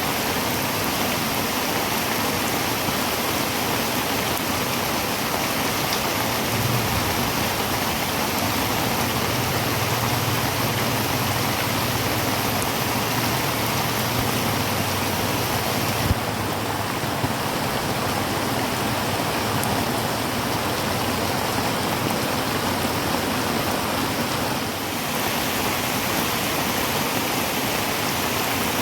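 Heavy rain pounding steadily on a tin roof, a dense even hiss. A low drone runs underneath for about ten seconds in the middle, and there is a single sharp tap about sixteen seconds in.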